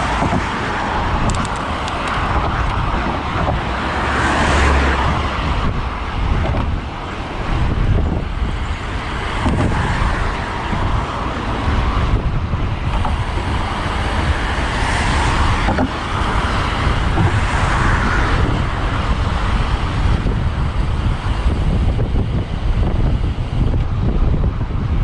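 Road traffic: cars passing by several times, each swelling and fading, over a steady low rumble of wind on the microphone from riding along.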